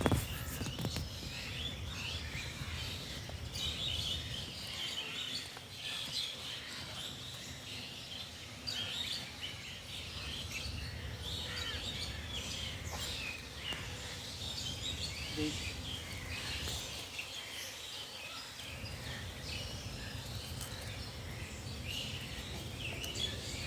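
Outdoor ambience: many short, high chirping calls throughout, over a steady low background rumble.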